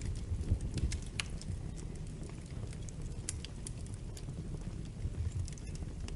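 Wood fire in a fireplace crackling: a steady low rumble of the flames with scattered sharp pops, the clearest about a second in and around three seconds in.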